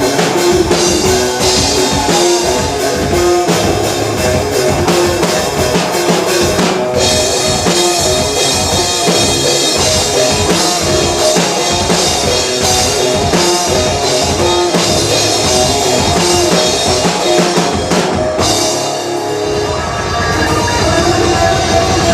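Live rock band playing loudly: drum kit with bass drum and snare driving a steady beat under sustained guitar notes.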